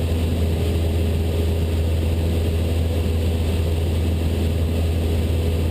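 Cessna 172 Skyhawk's piston engine and propeller running at steady cruise power, heard as an even drone inside the cabin.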